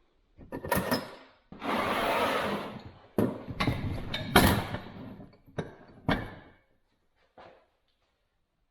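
Bench vise and parts being handled on a workbench: a scraping or rustling noise lasting about a second and a half, then a series of separate knocks and clunks, with quiet near the end.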